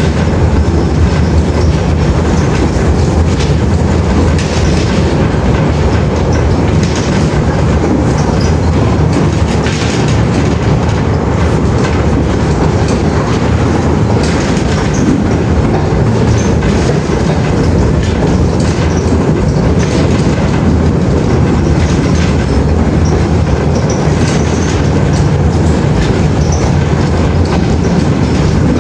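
A train running steadily on the track: a continuous loud rumble with the wheels clicking over the rail joints.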